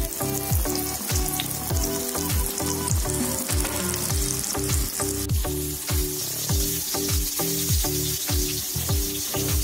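Masala-coated spiny gourd halves frying in hot oil on a flat iron tawa, a steady sizzle that grows brighter about halfway through. Background music with a steady beat of deep kicks about twice a second plays throughout.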